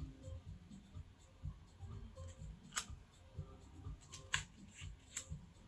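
Quiet room with a few faint, light clicks or taps, three of them spread through the second half.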